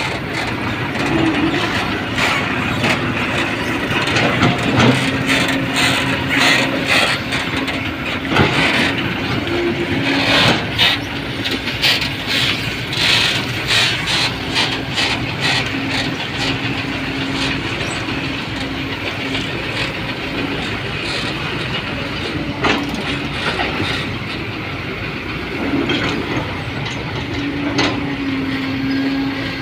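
A heavy motor vehicle running, with frequent rattles and clunks over a steady low hum.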